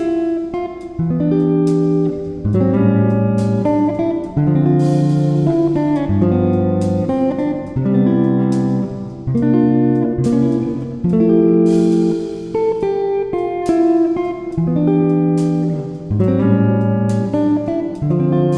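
Background music on guitar: strummed chords changing every second or so, at a steady pace.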